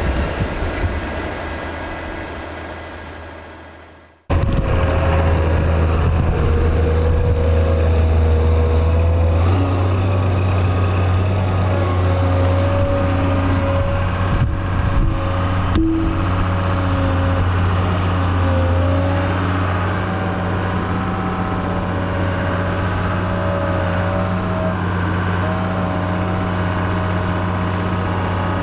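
A passing train's sound fades away, then after an abrupt cut a large diesel engine runs steadily with a low hum and a wavering whine above it. Its pitch steps up slightly about halfway through.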